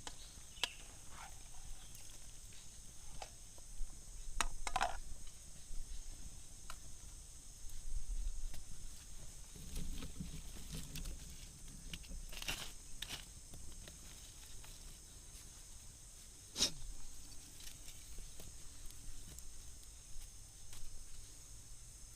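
Steady high-pitched insect chorus, with scattered clicks and knocks, the sharpest about 16 seconds in.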